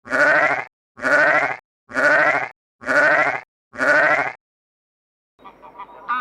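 Bleating: five wavering calls, each under a second, repeated about once a second. The five calls look identical, as if one bleat is played over and over.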